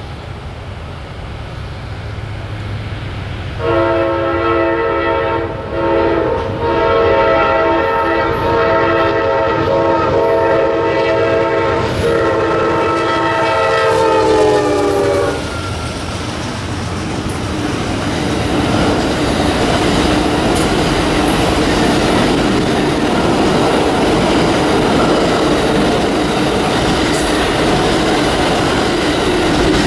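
Amtrak Auto Train led by a P40DC diesel locomotive approaching and passing: the horn blows about four seconds in, with a short break, then is held for about ten seconds, its pitch dropping at the end as the locomotive goes by. The long train of rail cars then rolls past with steady wheel noise and clickety-clack.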